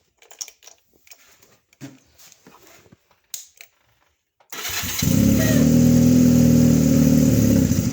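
1986 Honda Limited Edition's engine cold-started at about 40°F: after a few seconds of faint clicks, it is cranked and catches about four and a half seconds in, runs steadily and loudly, then cuts off right at the end.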